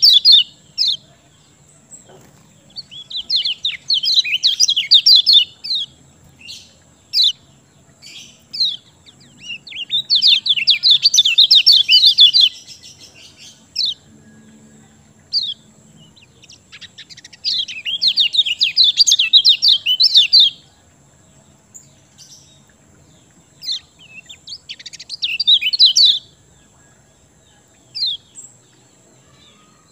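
Common iora (kecial kuning) calling in repeated bursts of rapid, high chattering 'ciak' notes, each burst two to three seconds long, four times, with short single notes in the gaps.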